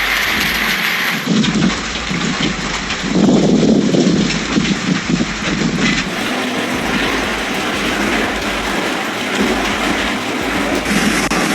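Steady rush of heavy storm rain, with a louder low rumble a few seconds in.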